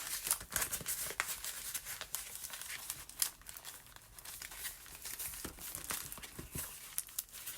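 Paper being handled and rearranged: scattered rustling and crinkling with small clicks as the sheets are shifted and turned.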